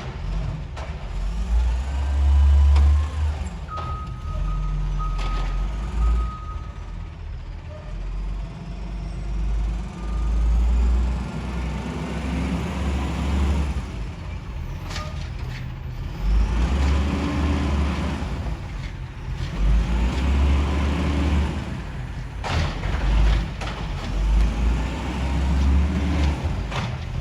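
Garbage truck at work: its diesel engine runs with a heavy, uneven low rumble while whines rise and fall in pitch. A high steady tone sounds for a couple of seconds about four seconds in, and there are brief hissing bursts later on.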